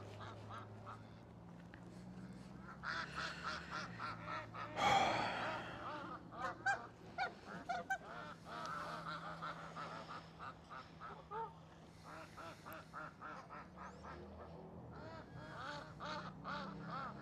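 A flock of geese honking, many short calls overlapping, with a steady low hum underneath.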